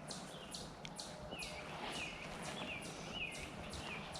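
A bird calling over and over in short, evenly spaced chirps, two or three a second, over a steady outdoor hiss.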